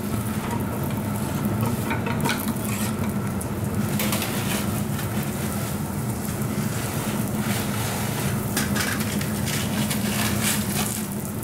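A paratha sizzling on a hot iron tawa as melted butter is spooned onto it and spread across it. Light clicks and scrapes of a metal spoon on a steel cup and the pan come now and then, over a steady low hum.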